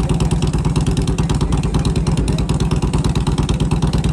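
Motorcycle engine idling loudly and steadily with a fast, even pulse, held at idle before a rev-and-flames run.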